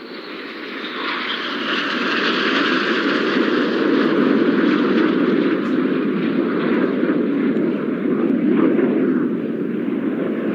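Four BAE Hawk T1 jets flying past in formation, their turbofan engine noise building over the first two seconds and then staying loud and steady, easing slightly near the end.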